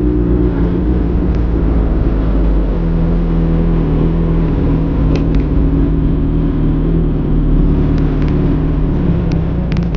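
Suzuki Hayabusa's inline-four engine running at a steady cruising pitch while the bike is ridden, over a low rumble of road and wind noise.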